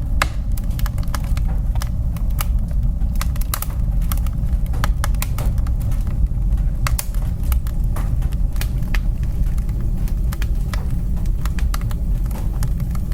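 Wood fire burning in a fireplace: a steady low rumble of the flames, with frequent irregular crackles and pops.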